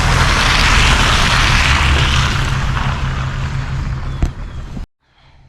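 Loud wind buffeting the small camera's microphone, a rough rumble with hiss above it, which cuts off suddenly near the end.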